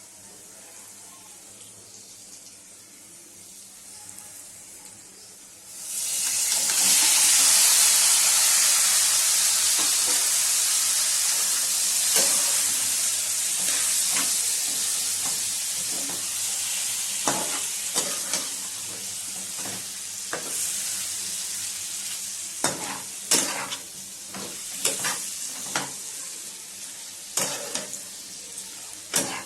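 Chicken leg pieces frying in hot oil: the sizzle starts suddenly about six seconds in, as the pieces go into the oil, and slowly dies down. Utensil knocks and scrapes against the pan come more often in the second half as the pieces are stirred.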